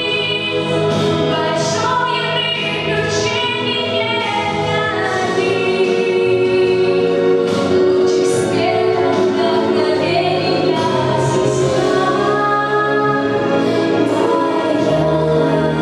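A girl singing a song in Russian over a full instrumental accompaniment with a held bass line, the music continuing at a steady level.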